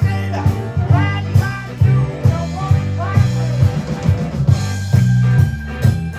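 Live band playing an instrumental stretch of a bluesy song: a prominent bass line, steady drum beats, and guitar notes bending up in pitch.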